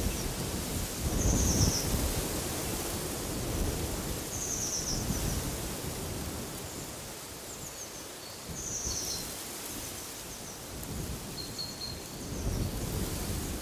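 Wind gusting through a forest, with low buffeting on the microphone that swells about a second and a half in and again near the end. A bird gives a short high call every three to four seconds, with a few fainter, lower chirps in between.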